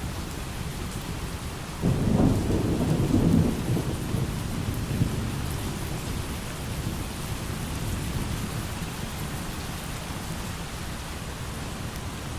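Steady light rain, with a thunderclap about two seconds in that rumbles low and fades away over several seconds.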